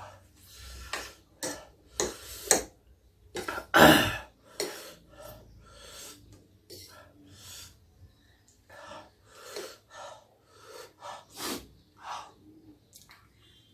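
Mouth and breath sounds of a person eating very spicy noodles: a string of short hissing gasps and breaths, the loudest about four seconds in.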